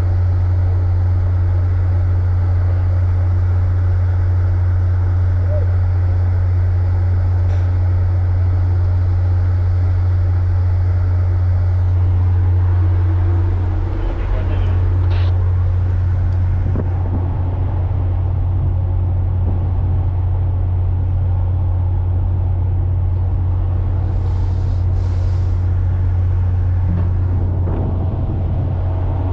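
Steady low drone of a ship's diesel engine running at constant speed, with a few faint knocks over it.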